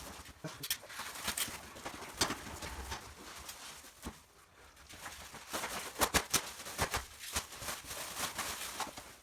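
Irregular light knocks and clicks, with a cluster of sharper ones about six seconds in.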